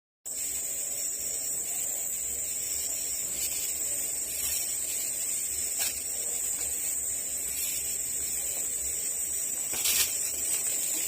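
Forest ambience dominated by a steady, high-pitched insect drone over a soft hiss, with a few brief clicks midway and near the end.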